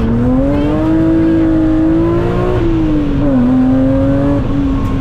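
BMW Compact M3 rally car's straight-six engine heard from inside the cabin, pulling hard with its pitch climbing. A little past halfway the pitch drops quickly, then holds and starts to climb again.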